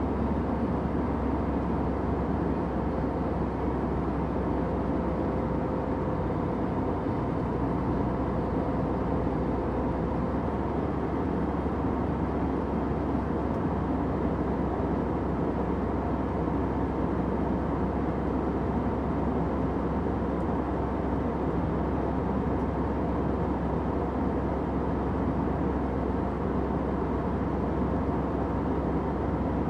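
Airliner cabin noise: the steady, unbroken drone of jet engines and airflow heard from inside the cabin, deep and even, with a faint thin tone that fades out about ten seconds in.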